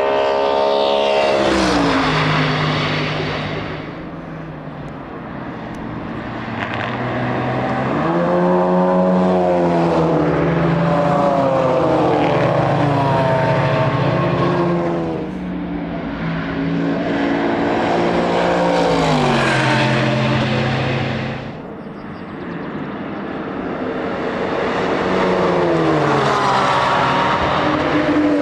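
Race cars going past one after another at racing speed. Their engine notes rise in pitch as they accelerate and shift up through the gears, and each pass swells and fades before the next car arrives.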